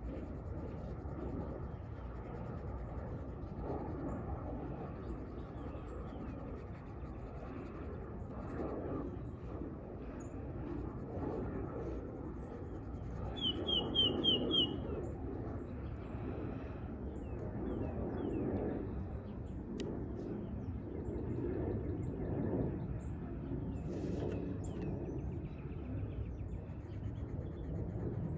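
Outdoor park ambience: a steady low background hum with soft repeated coloring strokes on paper. About halfway through, a bird gives a quick run of four high chirps.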